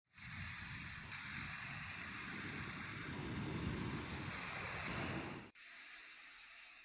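Steady spraying hiss with a low rumble under it. About five and a half seconds in it cuts abruptly to a thinner, higher hiss.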